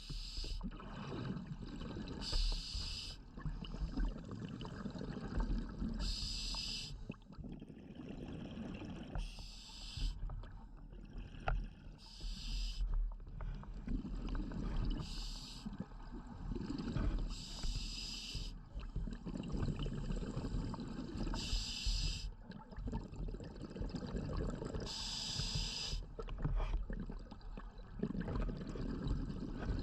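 A scuba diver breathing through a regulator underwater: a short hiss with each breath, roughly every three seconds, over a steady bubbling rumble.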